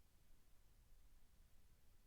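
Near silence, with only a faint, steady low rumble.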